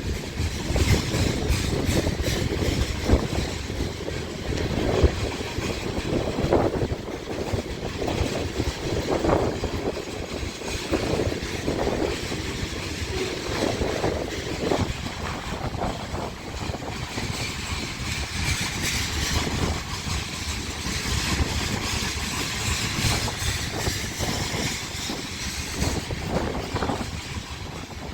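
Loaded oil train rolling past, with a steady rumble and clatter of wheels on the rails and brief higher flares of wheel noise now and then.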